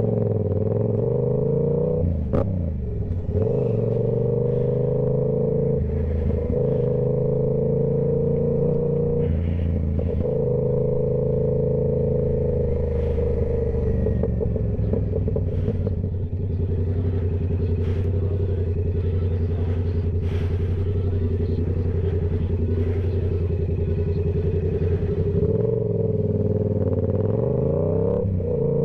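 Yamaha YZF-R7's parallel-twin engine through a Toce full exhaust system, running at steady revs under way. The engine note dips and climbs back about two seconds in and again near the end, with scattered light clicks.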